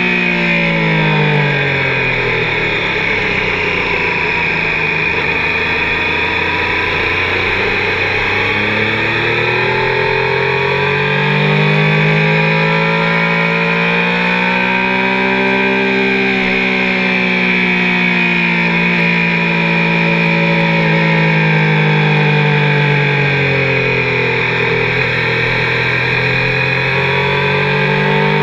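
Triumph sport bike engine at high revs under a steady wind rush, its pitch falling over the first few seconds, staying low for a while, climbing for several seconds, then falling slowly and climbing again near the end.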